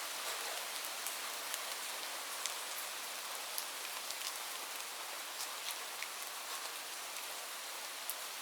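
Light rain falling steadily: an even hiss with many small, irregular drop ticks on a surface.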